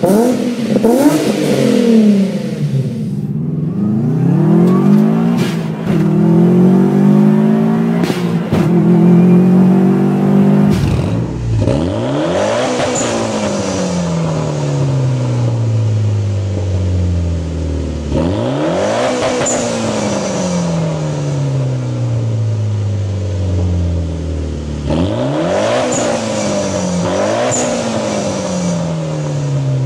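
Performance car engines revving and accelerating. About eleven seconds in the sound changes, and from then on an engine's pitch climbs sharply and then falls slowly over about six seconds, three times over.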